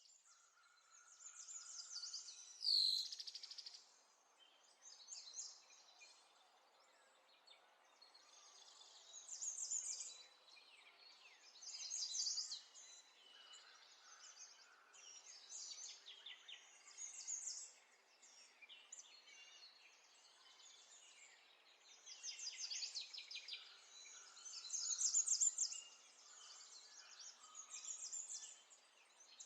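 Birds chirping and twittering in repeated short bursts over a faint steady background hiss.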